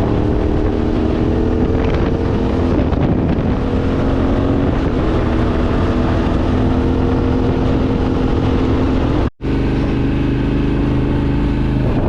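Yamaha Ténéré 700's parallel-twin engine running steadily at road speed, with wind rushing over the microphone. The sound cuts out for an instant about nine seconds in, and afterwards the engine note is lower.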